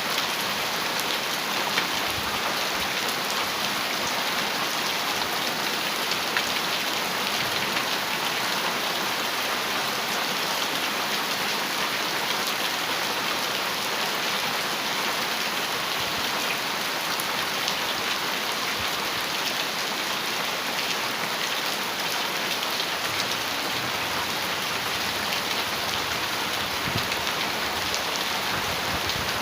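Heavy rain falling steadily on a metal roof: a dense, even hiss with a few sharper drop taps now and then.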